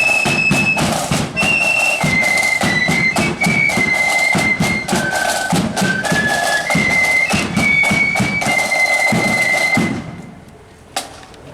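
Marching flute band playing a high, shrill melody over snare and bass drums. The tune stops about ten seconds in, and a single drum beat follows about a second later.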